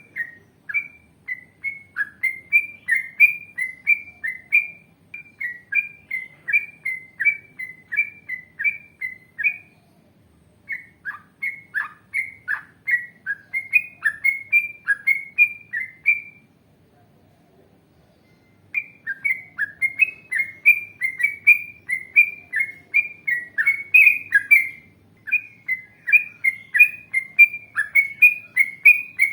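Yellow-vented bulbul (trucukan) singing long runs of short, chirping notes, about two a second, with a brief pause about ten seconds in and a longer pause of about two seconds past the middle.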